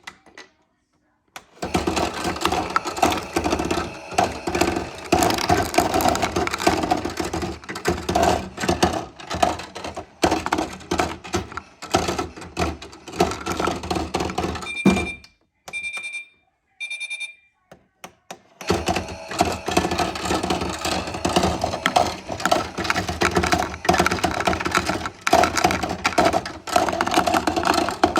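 Washing machine: loud, dense clattering and knocking, broken about fifteen seconds in by three short electronic beeps from the control panel, a second apart.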